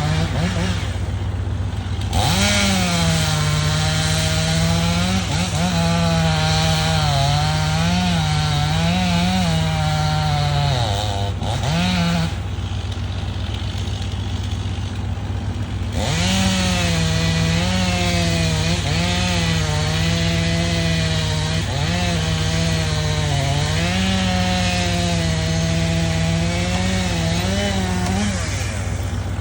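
Two-stroke chainsaw running at high revs while cutting wood, its pitch dipping and recovering as it bogs under load, easing off briefly about halfway through before cutting again.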